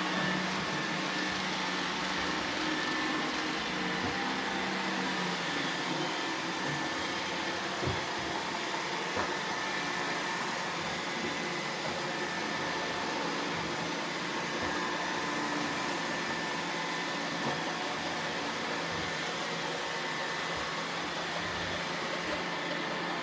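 iRobot Roomba robot vacuums running steadily with a constant whirring hum, with a few faint knocks.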